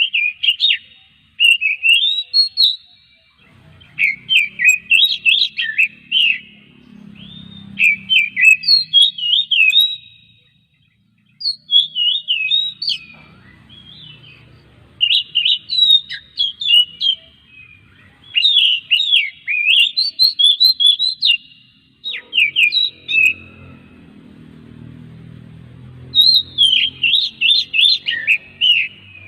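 Oriental magpie-robin (kacer) singing in fast, varied phrases of whistles and chirps, each phrase a second or two long with short pauses between.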